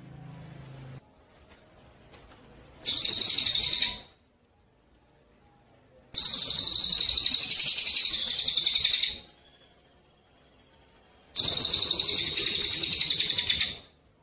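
A songbird singing three loud, rapid, high-pitched trills of fast repeated notes: a short one about three seconds in, a longer one of about three seconds from about six seconds in, and another from about eleven seconds in. Faint thin high calls sound in the pauses between.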